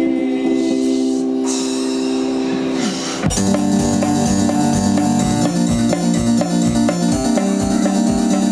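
Live band playing an instrumental break: a held electric-piano chord, then about three seconds in a sharp hit and the band comes in with a steady beat of drums under repeated keyboard chords.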